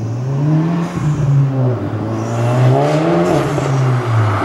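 Volkswagen Golf MK7's turbocharged 2.0-litre four-cylinder accelerating hard through an Armytrix valved exhaust set to auto mode. The engine note climbs, drops briefly about a second in, then climbs again and falls away near the end.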